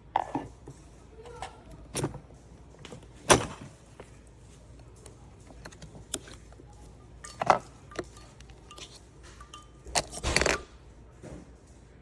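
Scattered clicks and knocks of the coffee maker's parts being handled, the sharpest about three seconds in, with a brief rustling clatter near the end.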